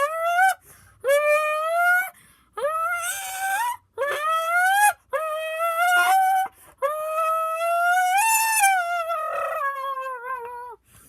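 Squeezed aluminium drink can blown through so it buzzes like a reed, imitating a Lamborghini engine revving. It comes in about eight short bursts, each climbing in pitch like a car going up through the gears, with a longer one near the end that rises and then falls.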